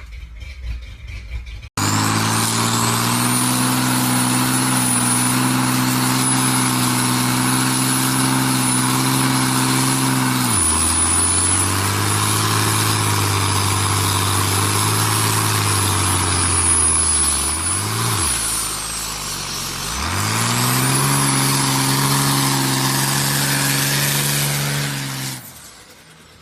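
Truck engine running at a raised, steady speed, dropping to a low idle about ten seconds in and revving back up about twenty seconds in. A thin high whine rises and falls with it. The sound starts abruptly and stops a second before the end.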